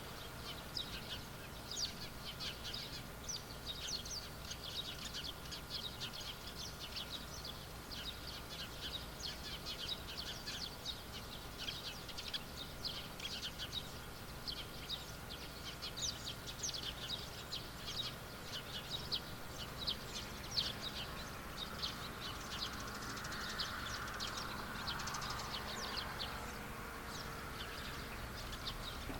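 Many small birds chirping continuously in quick, overlapping short calls. A faint steady high tone runs under them in the first half, and a soft rushing sound swells and fades in the last third.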